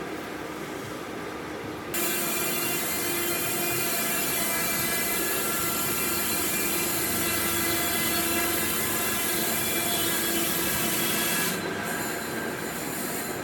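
Power tool working wood. A quieter run steps up suddenly about two seconds in to a loud, steady, high-pitched whine with grinding, then drops back near the end.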